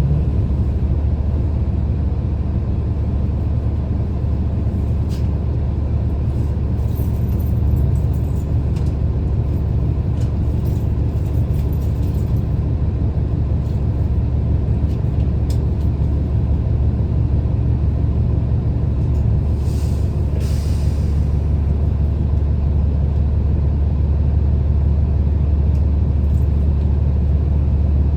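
Steady low engine and road rumble of a city transit bus heard from inside the cabin, with a few faint rattles and a short hiss of air about two-thirds of the way through.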